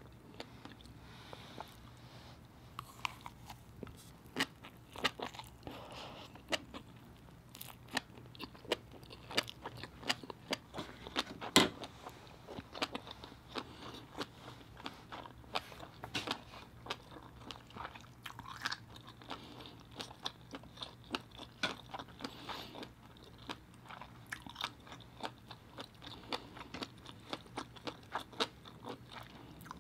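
A person chewing a mouthful of abalone, rice and fish eggs: many small wet clicks and crunches, the loudest about twelve seconds in.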